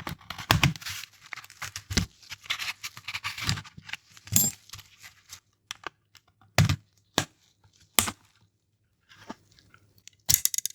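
Plastic parts of a Nintendo DSi XL's shell being worked apart by hand: irregular scraping and crackling with separate sharp clicks and snaps, several louder ones in the second half and a quick cluster near the end.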